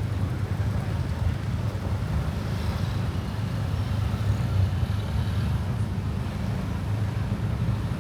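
A motorcycle running along at riding speed: a steady low rumble of engine and wind on the microphone.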